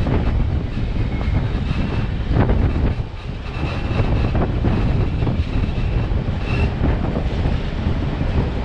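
Moving railroad passenger car running along the track, a steady rumble of wheels on rails with wind buffeting the microphone on the car's side. A faint high squeal comes and goes in the middle.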